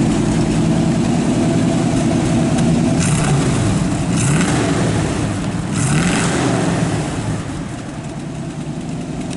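1959 Chevrolet Corvette's 283 cubic inch small-block V8 idling, blipped three times, about three, four and six seconds in, each rev rising and falling back, then settling to idle.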